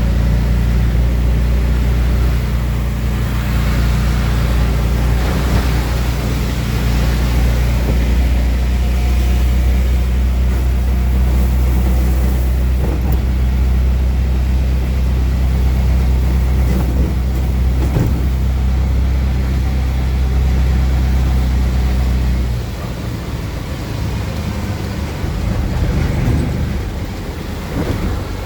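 Auto rickshaw's small engine running steadily under way, heard from inside the cab, with a hiss of rain and wet road. About three-quarters of the way through, the engine drone drops and the sound quietens as the rickshaw eases off.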